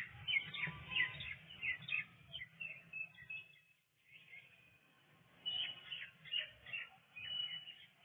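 Small songbirds chirping and twittering in quick runs of short high notes, in two spells with a brief lull about halfway through, over a faint low hum.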